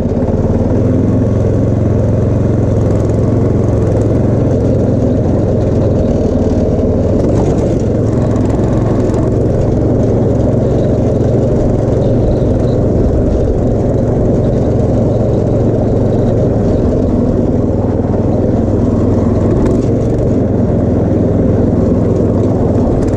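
Go-kart's small engine running steadily under way, holding an even pitch without cutting out.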